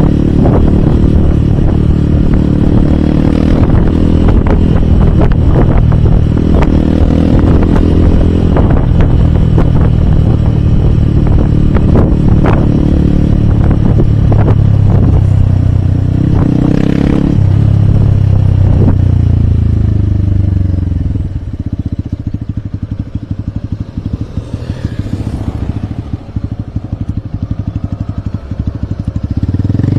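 Hero Hunk single-cylinder motorcycle engine running under way, with scattered rattles and clicks. About 21 seconds in, the throttle closes and the engine drops to a low, evenly pulsing putter. It picks up again just before the end.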